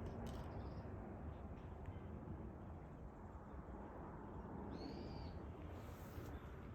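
A faint, short, high-pitched animal call once, about five seconds in, over steady low background noise, with brief rustling clatters near the end.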